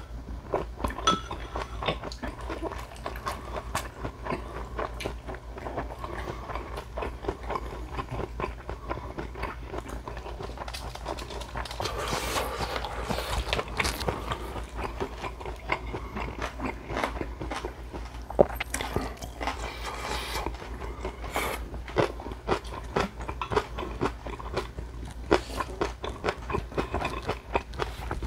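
A person chewing food with the mouth closed: continual wet mouth clicks and smacks, with a louder, denser stretch about twelve seconds in.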